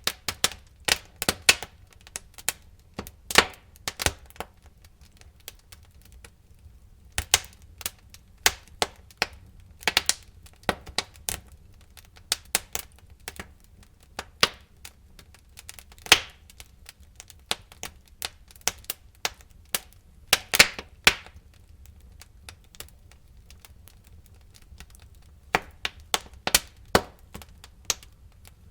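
Burning wood crackling and popping in a fireplace: irregular sharp snaps, sometimes in quick clusters, over a faint low rumble of the fire, with a couple of quieter lulls.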